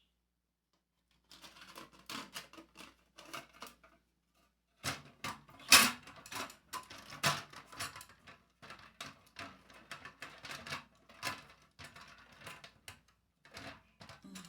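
Small parts of a rotating perfume organizer clicking and knocking as they are handled and fitted together: an irregular run of taps starting about a second in, with one louder knock a little before the middle.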